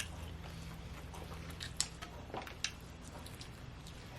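Faint eating sounds: a few short clicks and smacks about two seconds in, over a steady low hum.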